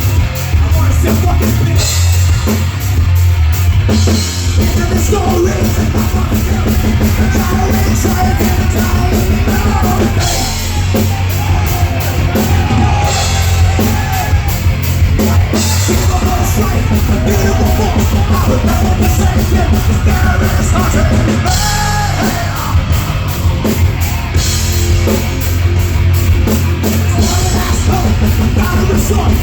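Live rock band playing loudly and continuously, with a driving drum kit under the full band.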